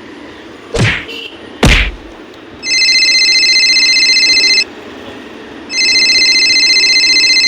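Two quick whooshes falling in pitch, then an electronic ringing tone that sounds twice, each ring about two seconds long and starting and stopping abruptly, like a phone ringtone.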